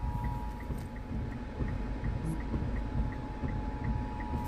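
Emergency alert two-tone attention signal sounding steadily for a severe thunderstorm warning, with an even ticking of about three clicks a second and a low rumble beneath it.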